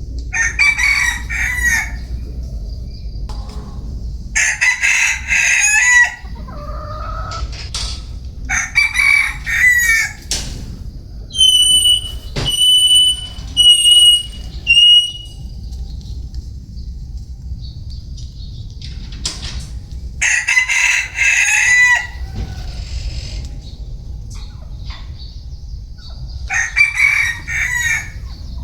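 Vietnamese bantam (gà tre) rooster crowing, five crows of about two seconds each with long pauses between them. Midway there are four short, high, steady notes, over a steady low rumble.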